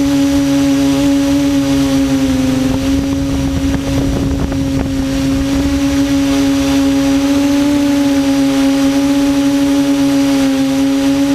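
Quadcopter's electric motors and propellers giving a loud, steady hum, its pitch wavering slightly as the throttle shifts.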